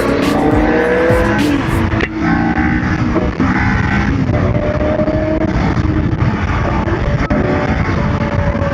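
High-performance vehicle engines running hard and accelerating, their pitch climbing in rising sweeps with a break about two seconds in, mixed with background music.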